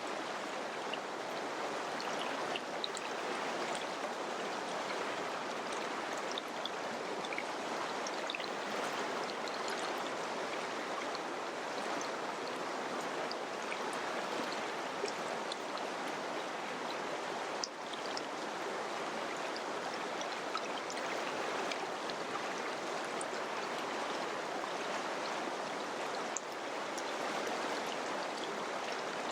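River water flowing in a steady, unbroken rush, flecked with small splashes and ticks.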